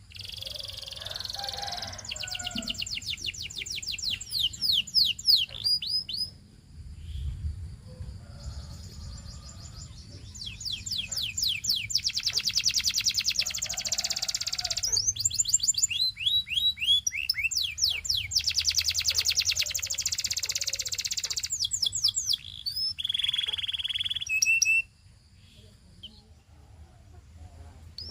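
Canary singing: long phrases of fast trills, each made of rapidly repeated high notes, broken by short pauses and changing to a new trill every few seconds. The song falls quiet near the end.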